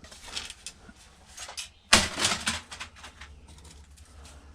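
Scattered clicks and knocks of hand tools and small parts being worked while taking apart a karaoke machine, the loudest about two seconds in, over a low steady hum.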